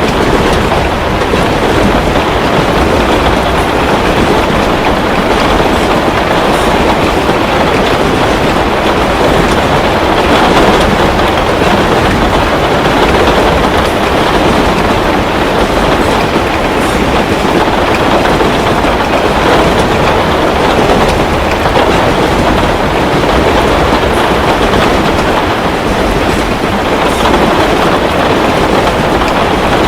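Heavy rain falling steadily in a dense, even rush with a low rumble underneath. A few faint crackles from a fireplace come through now and then.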